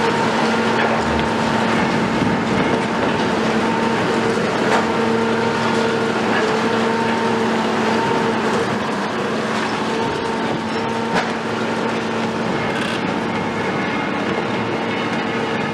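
Cat 374 excavator running under load, its Cat C15 diesel and hydraulics giving a steady hum with a held whine, while metal clanks and knocks come through at irregular moments.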